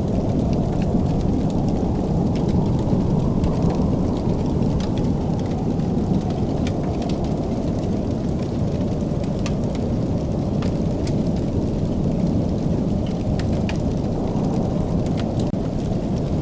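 Wood fire crackling in a fireplace: a steady low roar with scattered sharp pops and snaps throughout.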